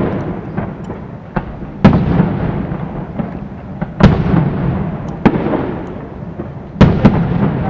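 Aerial firework shells bursting: three loud booms a few seconds apart, each followed by a long rumble, with smaller cracks between them.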